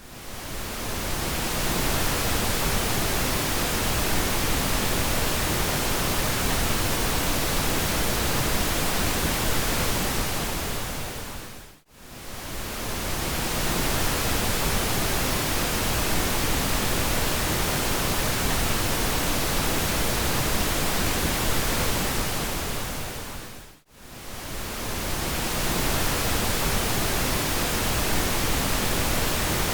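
Pink noise: a steady, even hiss across the whole range, briefly fading out to near silence and back in about 12 seconds in and again about 24 seconds in, the seams of a roughly 12-second loop.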